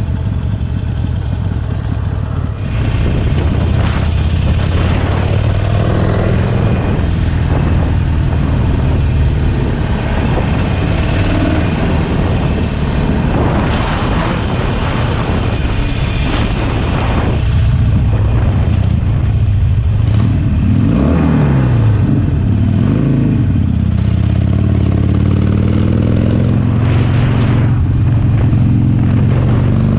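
Harley-Davidson Sportster Forty-Eight's air-cooled V-twin running through a Jekill & Hyde flap exhaust while being ridden. It gets louder about three seconds in, and about two-thirds of the way through the engine note falls as it slows, then climbs again as it pulls away.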